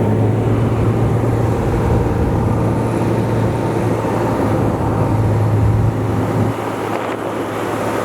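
Socata TB20 Trinidad's six-cylinder Lycoming piston engine running steadily, a low hum under a broad wash of noise, dropping a little in level about six and a half seconds in.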